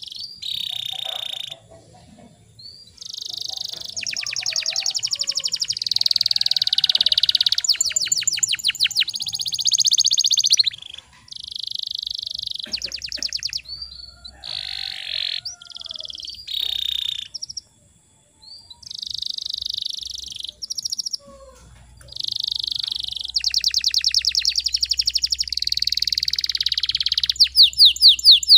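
Domestic canary singing a long, high-pitched song in phrases, full of fast rolling trills, with a couple of brief pauses between phrases.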